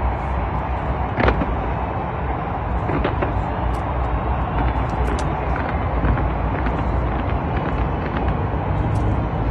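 Fireworks popping and crackling over a dense outdoor crowd and city din, with one sharper bang about a second in.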